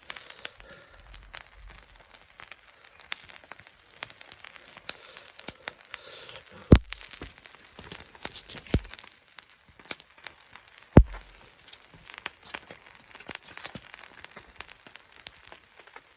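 Wood fire crackling steadily, with a few sharp pops standing out, the loudest about a third and two-thirds of the way through.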